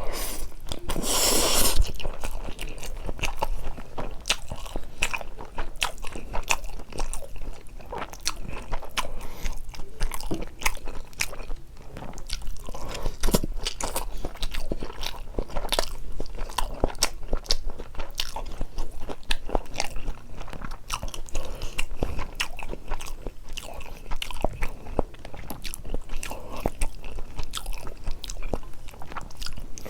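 Close-miked eating: steady chewing and biting with many sharp, wet mouth clicks, and a brief louder rush of noise about a second in.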